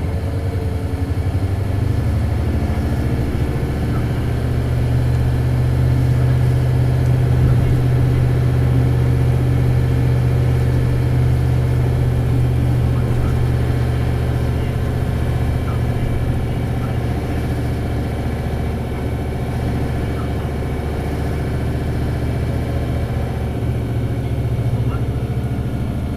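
Isuzu 8PE1-S V8 diesel of an Isuzu Cubic city bus running under load as the bus drives, heard from inside the cabin. It holds a steady engine note that is loudest through the middle and eases a little in the later seconds.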